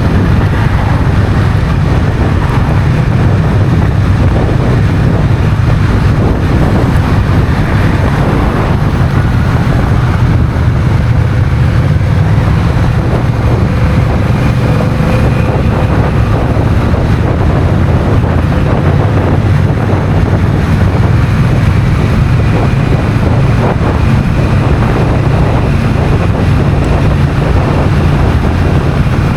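Honda CMX1100 Rebel's parallel-twin engine running at a steady road speed, mixed with wind rushing over the microphone.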